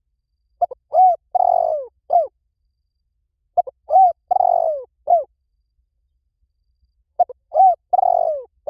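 Spotted dove cooing: three phrases about three and a half seconds apart, each a couple of short coos followed by a longer coo that falls in pitch and a final short coo.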